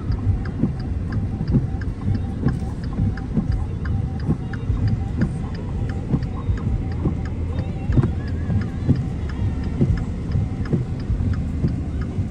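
Heavy rain falling on a car, many sharp taps over a steady low rumble.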